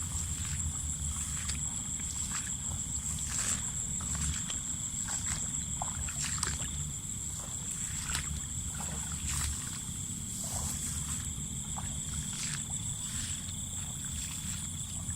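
Steady high-pitched chorus of night insects, with irregular knocks and water sloshing.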